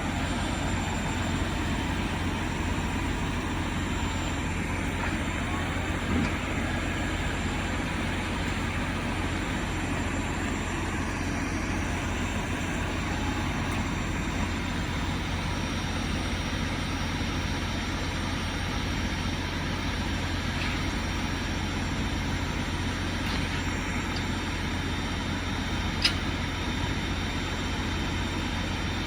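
Steady low rumble of a truck's diesel engine running at idle, with one sharp click near the end.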